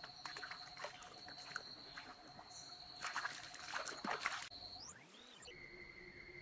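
Fresh water trickling and splashing over rocks in a shallow stream, faint, with a steady high tone running beneath it. About five seconds in, a sound rises in pitch and the steady tone changes.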